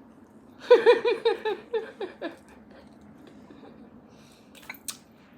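A woman laughing, a quick run of about eight short "ha"s lasting a second and a half, followed near the end by a couple of faint clicks.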